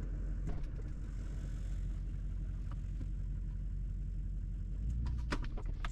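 Tractor engine idling steadily, with a few sharp clicks near the end.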